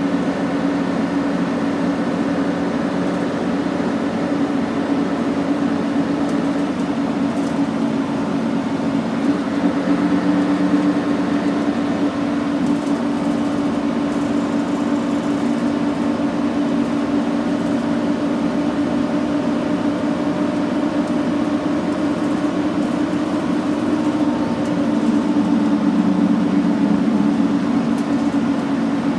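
Scania N113CRB bus's diesel engine running with a steady hum, its pitch shifting a little about ten seconds in and getting slightly louder near the end.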